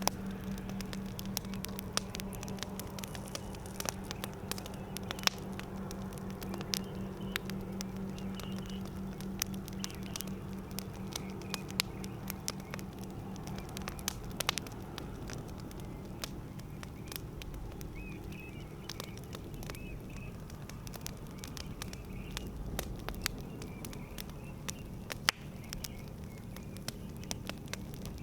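Wood campfire crackling, with many sharp irregular pops and snaps over a steady low hiss.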